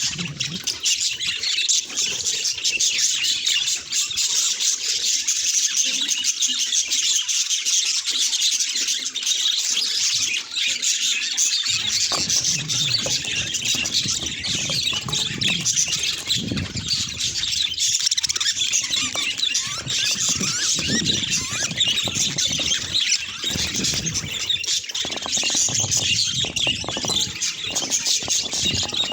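Budgerigars chattering and chirping without pause, many calls overlapping.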